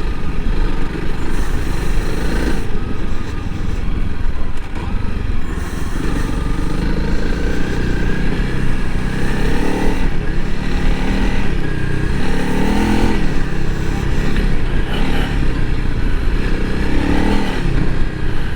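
Honda CRF300L Rally's single-cylinder engine running as the motorcycle is ridden, its revs rising and falling several times as the throttle is worked, over a steady rush of wind on the microphone.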